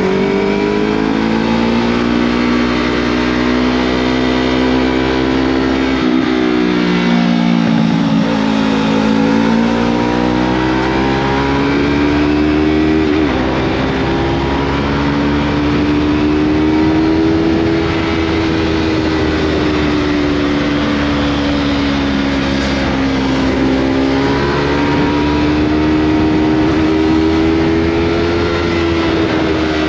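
Yamaha MT-03 motorcycle engine through a Scorpion full-system exhaust, running under way with its pitch rising and falling as the throttle opens and closes. About six seconds in the pitch drops sharply, then climbs again over the next few seconds.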